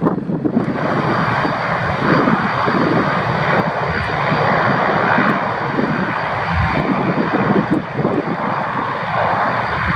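Antonov An-12BK's four Ivchenko AI-20M turboprop engines running, a loud steady roar with a thin steady whine above it.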